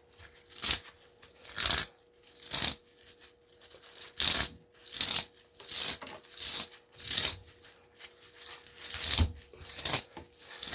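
Copper winding wire being pulled out by hand in repeated tugs, each a short scratchy rip, about one a second, with a faint steady hum underneath.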